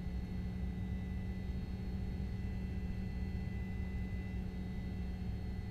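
Steady low rumble and hum of a vehicle's cabin, with faint constant high-pitched tones above it.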